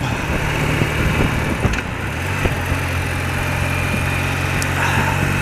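BMW R80RT motorcycle's air-cooled flat-twin boxer engine running steadily, with a steady hiss over it.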